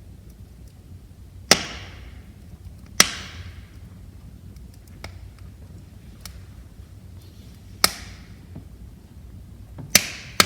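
Burning firewood crackling in a fireplace: a low steady rumble of flames with sharp, loud pops about every two to three seconds, each trailing off in a brief hiss, and fainter ticks in between.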